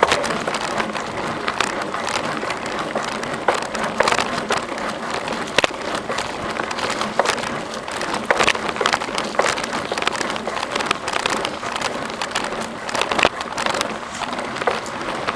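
Bicycle on the move: a steady rush of tyre noise on the trail, with irregular clicks and rattles.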